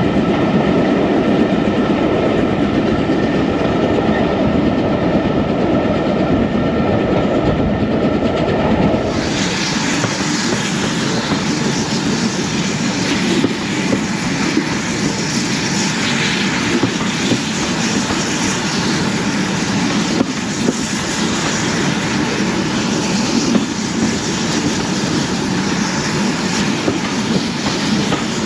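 Passenger train running along the track, a steady rumble of wheels on rails. About a third of the way in the sound turns abruptly brighter and hissier, with occasional short ticks.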